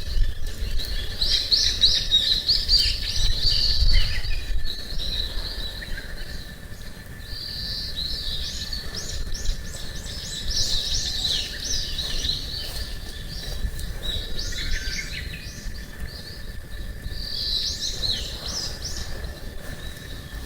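Small birds singing in bouts of quick, high chirping phrases, over a low rumble.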